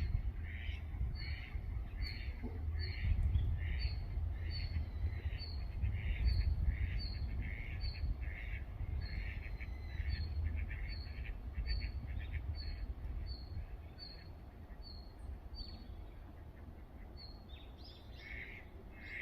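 A bird calls over and over in a steady series, about one and a half short, high calls a second, breaking off about sixteen seconds in and then giving a few more near the end. A low rumble runs beneath, strongest in the first half.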